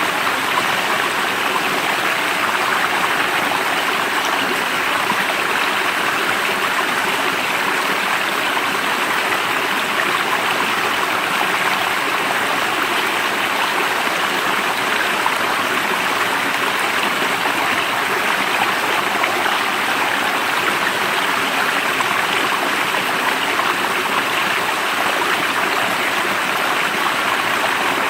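Stream water flowing, a steady, even rush with no change.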